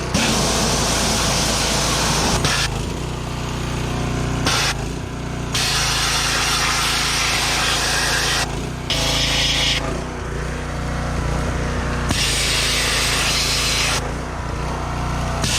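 Pressure washer spraying oil and grease off a car engine: the jet hisses in several spells, cutting off and starting again every few seconds as the trigger is released and squeezed, while the washer's motor runs steadily underneath.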